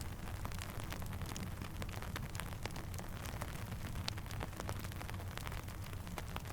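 Steady rainfall with the crackle of a campfire: scattered sharp pops and ticks over a constant hiss and a low rumble.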